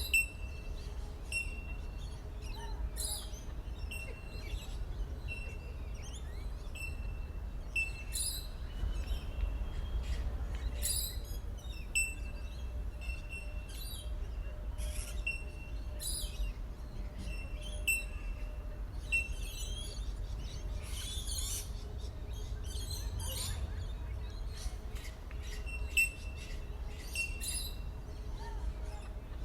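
Bell miners (bellbirds) calling: a short, clear, bell-like single note repeated every second and a half or so, with other brief high bird chirps scattered among them over a steady low outdoor rumble.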